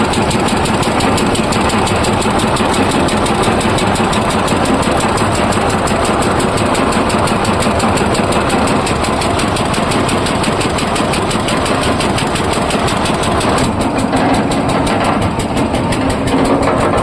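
Mini tractor's engine running steadily while it powers a borewell machine, with a rapid, even knocking beat. The sound turns slightly duller about three-quarters of the way through.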